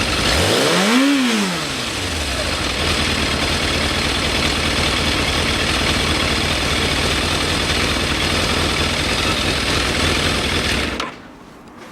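Kawasaki GPZ1100 inline-four motorcycle engine through its exhaust: one throttle blip about a second in, the note rising and falling back, then a steady idle that cuts off suddenly near the end.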